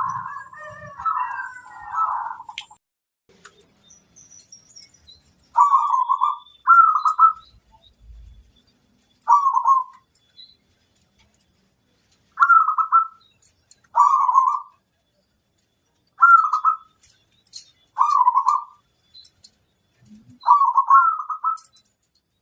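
Zebra dove (perkutut) cooing: short warbling coo phrases, each under a second, crowded together for the first couple of seconds, then repeated about nine more times with pauses of one to three seconds between them.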